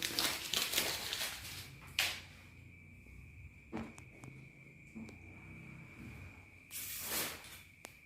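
Rustling and handling noises from unwrapping and moving a boxed standing mirror, with a couple of sharp knocks and a hissing rustle near the end. A faint steady high whine runs underneath.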